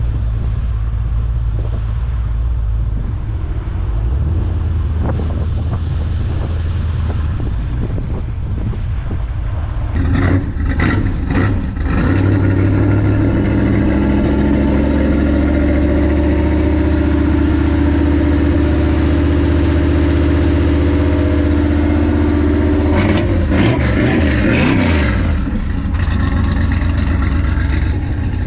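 Car engine running: a low rumble, then a few sharp knocks about ten seconds in, followed by a louder, steady drone that eases off a few seconds before the end.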